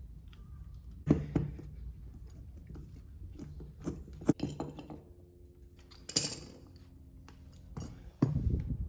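Metal hand tools and parts clinking and knocking against each other in a series of separate sharp clinks. A heavier knock comes near the end.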